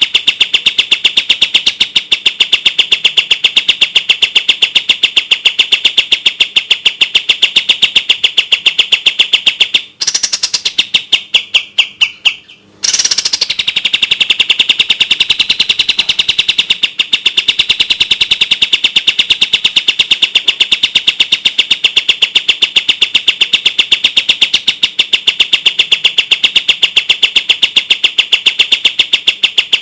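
Kapas tembak bird singing its clear, rapid song: a very fast, tightly packed string of high chirps. About ten seconds in, it breaks into a few slower notes sliding down in pitch and stops briefly, then the rapid chirping starts again.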